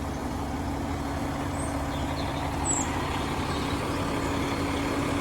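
Caterpillar 730C articulated dump truck's diesel engine idling steadily, a low even drone with a constant hum.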